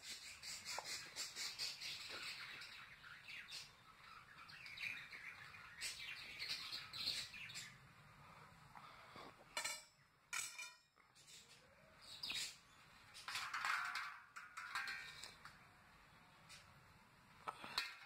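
Small birds chirping repeatedly in short, quick calls and glides, with a few light clicks.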